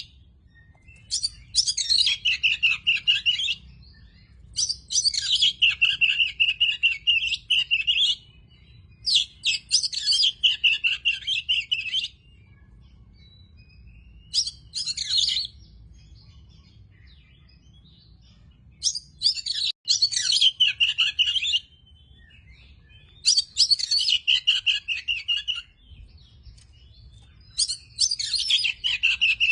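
Oriental magpie-robin (kacer) singing: about seven phrases of rapid, varied notes, each one to three seconds long, with pauses between them.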